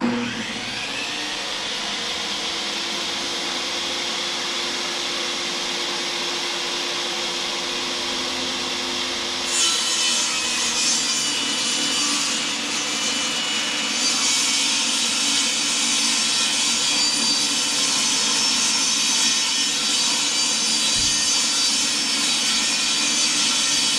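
Electric power saw running and ripping lengthwise along a long wooden trim board. The cut turns harsher and brighter about ten seconds in and again a few seconds later.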